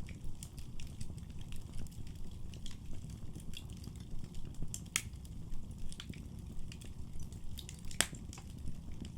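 Wood fire burning in a fireplace: a low, steady rumble of flames under irregular crackles and pops, with two sharper pops about five and eight seconds in.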